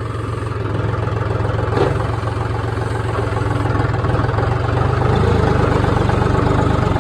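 Diesel engine of a tractor or loader running steadily, growing louder about five seconds in as it takes on more throttle.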